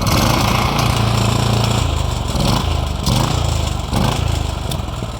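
Mitsubishi GM182P single-cylinder air-cooled four-stroke engine running. It is throttled up sharply at the start and held at higher revs, is blipped up and down a few times, then eases back toward idle near the end.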